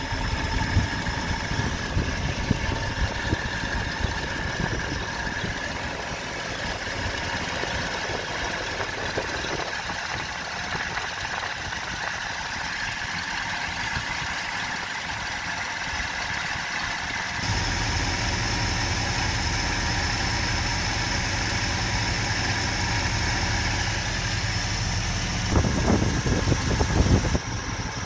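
Ford 360 FE V8 idling steadily while its carburetor's idle air screws are being adjusted for the highest manifold vacuum. A short cluster of knocks near the end.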